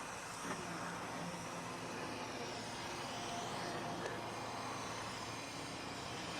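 A pickup truck driving up, a steady engine and road noise with a couple of small knocks.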